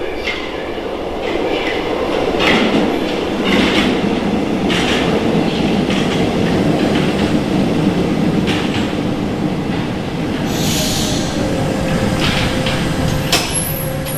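RATP MF67 steel-wheeled metro train running through a station, with a loud, steady rumble and repeated clacks of the wheels over rail joints. About ten and a half seconds in, a hiss of air and a steady whine join the rumble.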